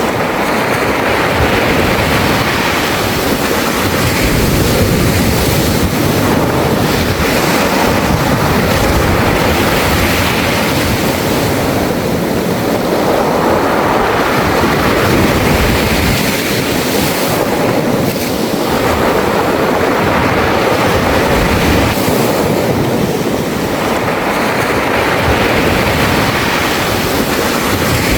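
Sea waves washing over a beach of smooth, rounded mongdol pebbles, the water rolling and clattering the stones. The surf is continuous, swelling and easing every five or six seconds.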